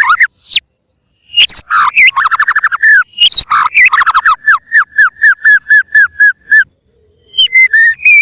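White-rumped shama singing loud, fast song: quick runs of down-slurred whistled notes. It pauses about a second in, then sings a run of evenly repeated notes at about five a second. Near the end it pauses again and then resumes.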